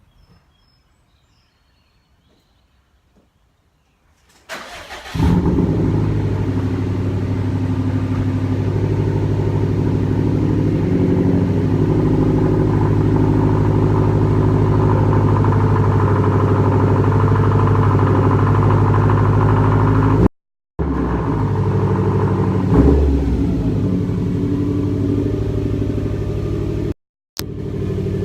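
Muffler-deleted Subaru STI turbocharged flat-four boxer engine cold-starting: a short crank about four seconds in, then it catches and settles into a loud, steady high cold idle. The sound cuts out briefly twice near the end.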